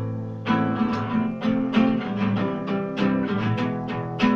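Acoustic guitar strummed in a steady rhythm of about three to four strokes a second, with its chords ringing between strokes.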